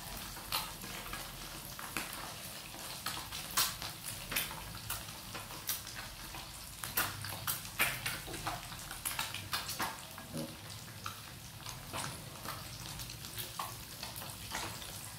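Batter-coated quail eggs frying in hot oil: a steady sizzle with frequent sharp crackles and pops.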